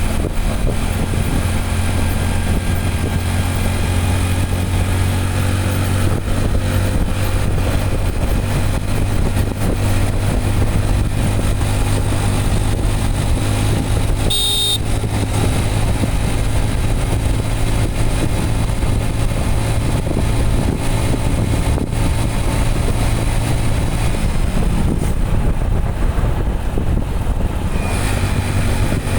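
Motorcycle engine running steadily at cruising speed during a ride, under a constant rushing noise. A short high-pitched tone sounds about halfway through, and the engine pitch drops a little after three-quarters of the way.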